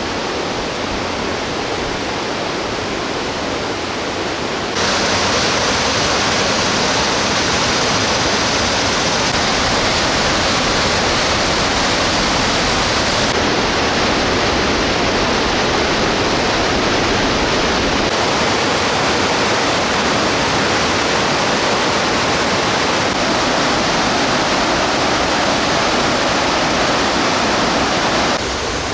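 Mountain stream water rushing over rocks, swollen after monsoon rain, a steady rushing noise that steps up louder about five seconds in and falls back near the end.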